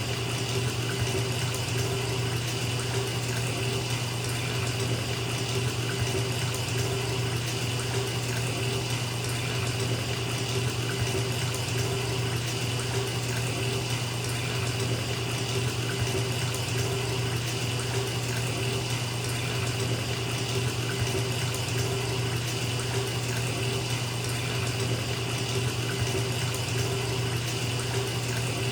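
Bathtub filling from the tap: a steady stream of water pouring into the tub, running evenly without change.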